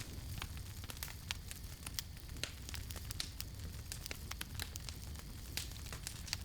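Wood campfire burning, with irregular sharp crackles and pops over a steady low rumble of the flames.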